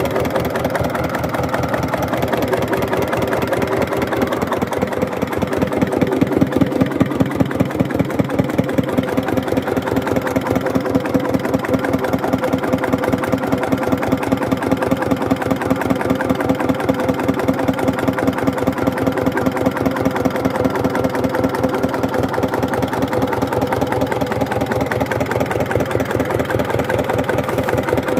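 Hatz diesel engine running slowly at low rpm, an even beat of firing strokes that stays steady.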